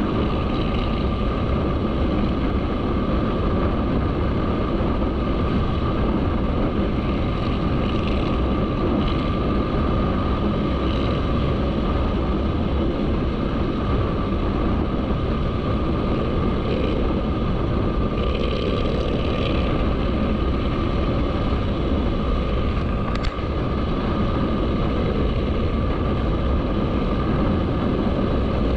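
Motorcycle running at a steady speed while riding, the engine's steady drone mixed with road and wind noise.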